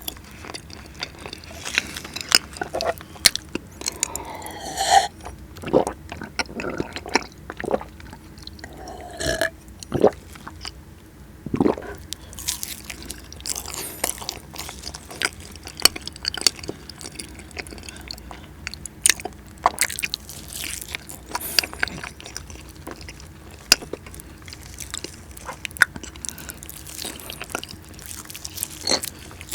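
Close-miked eating of soft cheesecake: chewing with many small wet mouth clicks throughout.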